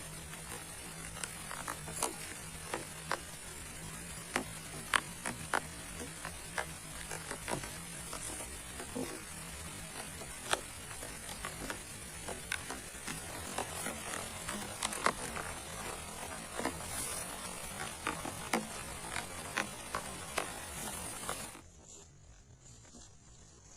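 Rain falling steadily, with irregular sharp taps of drops striking a nearby surface. About two seconds before the end the sound cuts off suddenly to a much quieter level.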